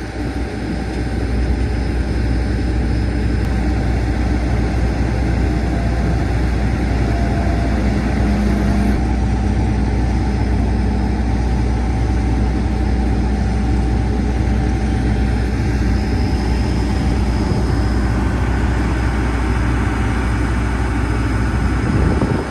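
A large vehicle engine running steadily at a constant speed. It cuts off suddenly near the end.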